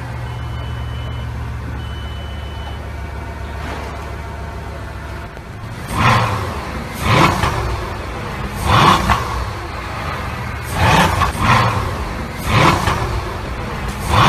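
Bugatti supercar engine idling steadily while three warning beeps sound, each about a second long. From about six seconds in it is revved repeatedly, around seven short blips that rise and fall in pitch.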